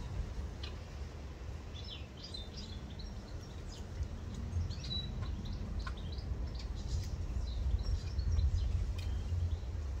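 Small garden birds chirping and calling in short, scattered notes, over a steady low rumble.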